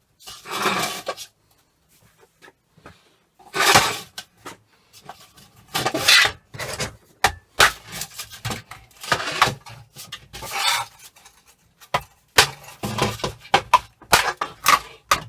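Metal parts of an old hood hair dryer being knocked and scraped loose with a hammer: several separate bursts of scraping and clattering metal, then a run of quick sharp knocks near the end.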